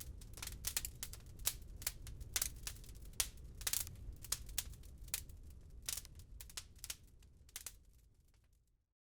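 Wood fire crackling in a fireplace: irregular sharp pops and snaps over a low steady rumble. It fades out to silence just before the end.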